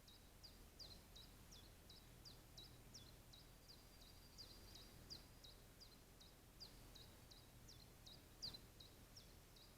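Faint, high, short chirps, each falling in pitch, repeated about three times a second by a small calling animal, over a faint low steady hum.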